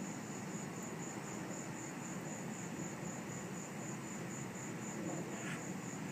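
Insects chirping in a steady high pulse, about three pulses a second, over a faint low rumble.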